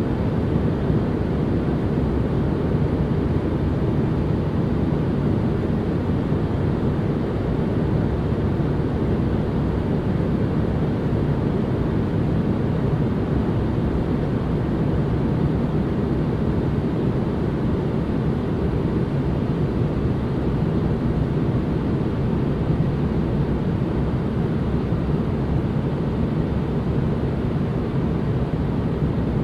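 Steady white-noise ambience: an even, unchanging hiss with most of its weight in the low end, a deep rumble rather than a bright hiss.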